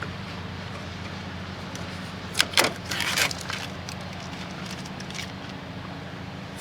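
Handling of a window air conditioner's casing: a couple of sharp clicks about two and a half seconds in, then a short rattling scrape, over a steady low hum.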